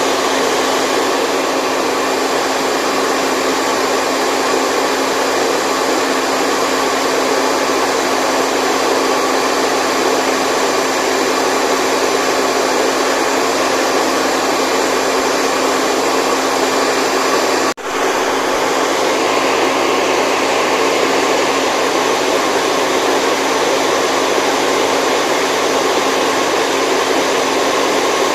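Steady white noise for baby sleep, a continuous even hiss with little bass and a faint steady hum in it, like a hair dryer running. It drops out for an instant about eighteen seconds in and then carries on unchanged.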